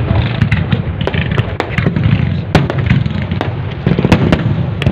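Fireworks display: many sharp, irregular cracks and pops over a continuous low rumble of bursting shells.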